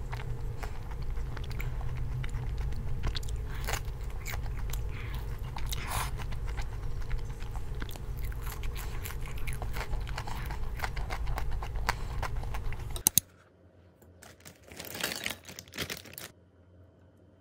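Close-up biting and chewing of a bungeoppang (fish-shaped filled pastry), with many small crunching clicks over a steady low room hum. About thirteen seconds in it cuts to much quieter sound, with a brief scrape of a wooden spoon in a ceramic bowl.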